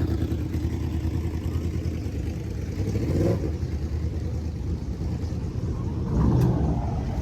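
Car engines running at idle with a low, steady rumble, one revving up briefly about three seconds in and again, louder, about six seconds in.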